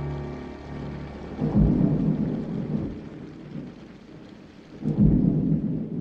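Two rolls of thunder, the first about a second and a half in and the second near the end, over a light hiss of rain, as soft orchestral music fades out at the start.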